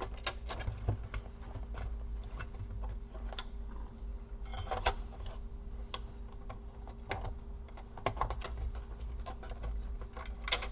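Irregular light clicks and taps of plastic and metal laptop parts being handled and worked loose during disassembly, over a steady low hum, with a sharper click just before the end.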